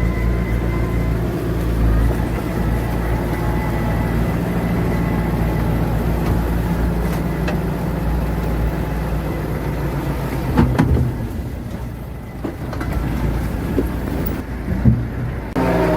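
Heavy earthmoving machine's diesel engine running steadily with a deep drone, with a couple of short clanks, one near the middle and one shortly before the end.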